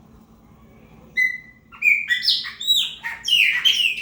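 Chopi blackbird singing. A single clear whistle comes about a second in, then a fast run of loud, sliding whistled notes.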